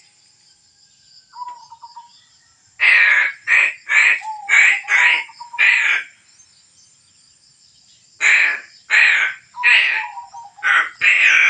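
A crow cawing in two rapid series of harsh calls, about six in a row, a short pause, then about five more.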